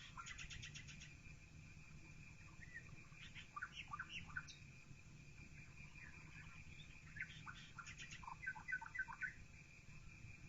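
Several small birds chirping and trilling in scattered short phrases, heard faintly through a partly open window. A steady high tone and a low hum run beneath them.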